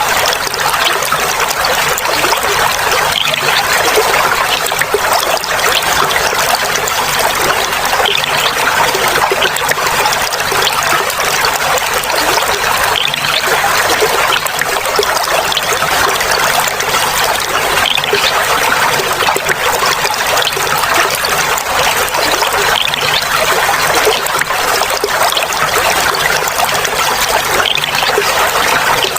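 Clear running water trickling and babbling steadily, bright and splashy with no deep rumble.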